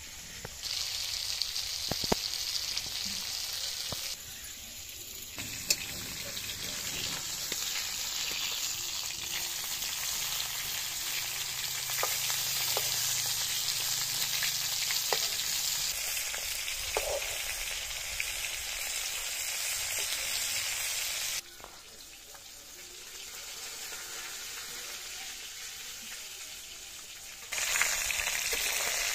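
Snakehead fish pieces frying in hot oil in a wok: a steady, dense sizzle, with the odd click of the metal spatula as the pieces are turned. The sizzle drops away twice, briefly a few seconds in and for several seconds past the middle, then returns loud near the end.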